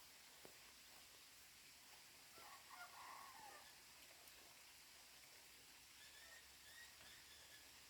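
Near silence with one faint bird call about two and a half seconds in, and faint high chirps near the end.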